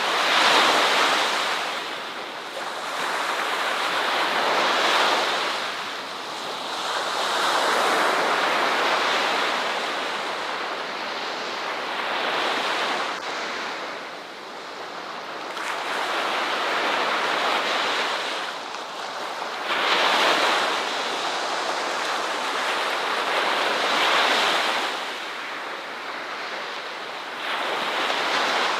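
Ocean surf breaking on a beach: a steady wash of waves that swells and falls back every three to five seconds.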